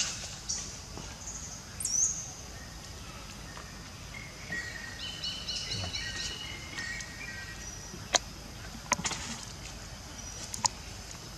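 Forest ambience with a bird singing a run of quick repeated chirps in the middle, followed by a few sharp clicks.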